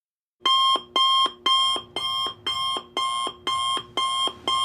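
Alarm clock sound effect: a digital alarm beeping about twice a second, each beep a short, bright electronic tone, starting about half a second in.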